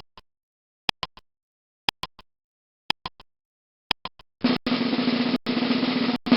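Sound effect: five ticks about a second apart, each with two fainter after-clicks, then a snare drum roll for the last two seconds.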